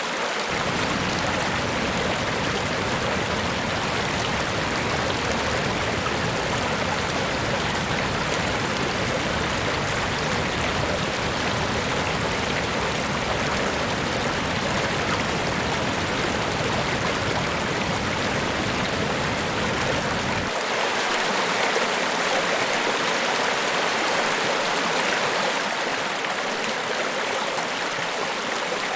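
Niagara Falls: a steady, dense rush of falling water. About two-thirds of the way in, the deep low rumble drops out and leaves a brighter hiss of spray.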